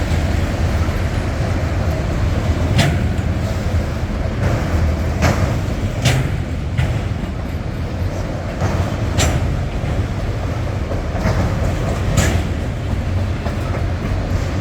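Norfolk Southern freight train rolling slowly. It makes a steady low rumble, with sharp clacks from the cars every second or few.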